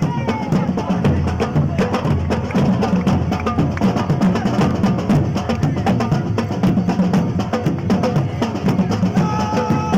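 A band playing music made mostly of drums and fast, rhythmic clicking percussion, with a few short held notes near the end.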